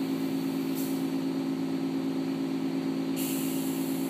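Automatic car wash heard from inside the car's cabin: a steady low mechanical hum, with a high spray-like hiss coming in about three seconds in.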